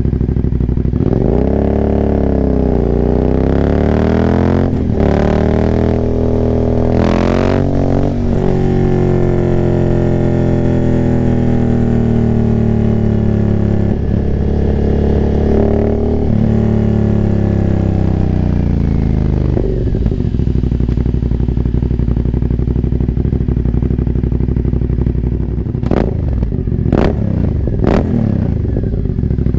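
Aprilia Dorsoduro 900's V-twin, breathing through a full Arrow exhaust with the cat removed and no dB killers, accelerating hard through several gears with brief breaks at each shift. It then winds down in a long deceleration with falling pitch, settles to low steady running, and gives a few sharp cracks near the end.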